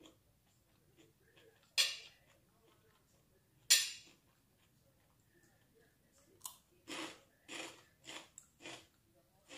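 A metal spoon clinks twice against a ceramic plate, then crisp crunching about twice a second as someone bites and chews a crispy fried rice-crust cracker (intip goreng) with a mouthful of fried corn rice.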